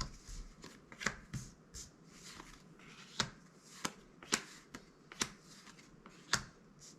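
Magic: The Gathering cards being flipped through by hand, each card giving a sharp snap as it is slid off the stack, irregularly about once every half second to second.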